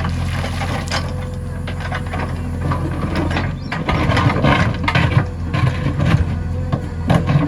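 JCB 3DX backhoe loader's diesel engine running steadily, with clanks and knocks from the working machine that grow busier about halfway through.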